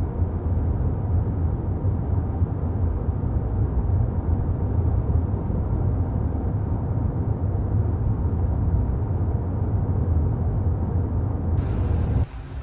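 Steady low rumbling noise that starts abruptly and cuts off suddenly near the end.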